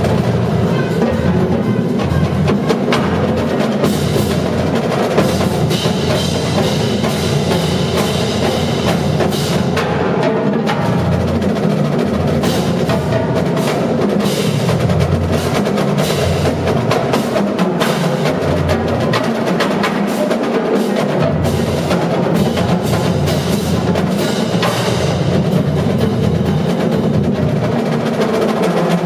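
Marching drumline playing a fast, continuous percussion piece: rapid snare-drum strokes and rolls over bass drums.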